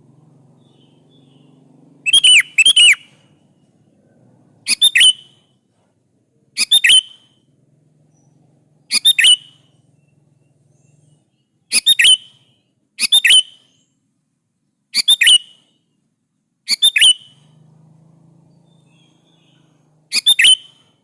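Sooty-headed bulbul (kutilang) calling: short, loud phrases of two or three quick notes, repeated about every two seconds after a quiet opening second or two.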